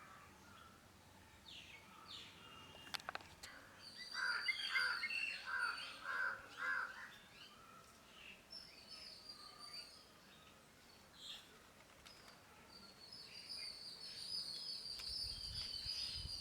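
Several songbirds chirping and calling, with a run of louder, lower-pitched calls about four seconds in and a thin high trill building near the end over a low rumble.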